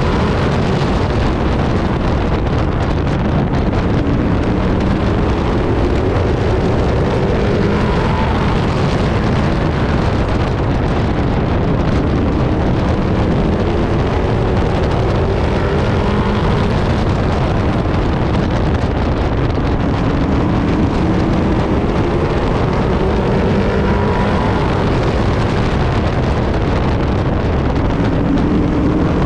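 Race truck engine at racing speed, loud and continuous, its pitch climbing in long rising sweeps every several seconds as the driver accelerates out of corners, with wind rushing past the in-cab microphone.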